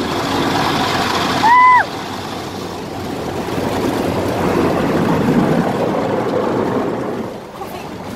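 Automatic car wash's rotating brushes and water spray working over the car, heard from inside the cabin as a steady rushing that swells and fades. A short high beep sounds about a second and a half in.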